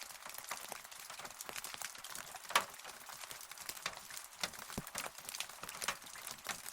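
Rain falling, heard as many separate drops tapping at an irregular pace, with one louder drop about two and a half seconds in.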